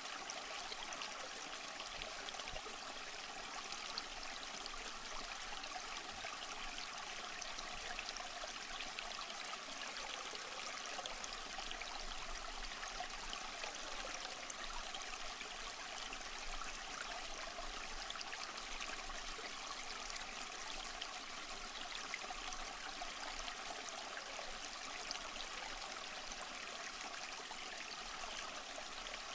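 Small stream flowing and trickling over rocks, a steady babbling with no breaks.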